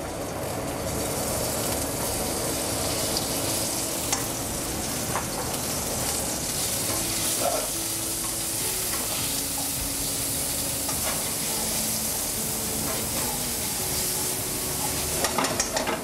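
Chunks of salt cod sizzling as they fry in hot garlic oil, a steady hiss that builds about a second in. Near the end, metal tongs click against the pan as the pieces are turned.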